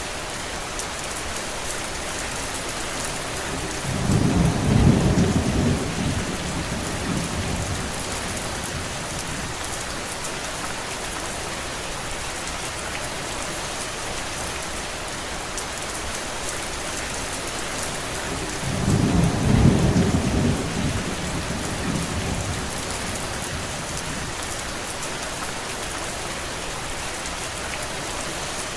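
Steady rain falling, an even hiss throughout, with two low rumbles of distant thunder, the first about four seconds in and the second about fifteen seconds later, each swelling and fading over a few seconds.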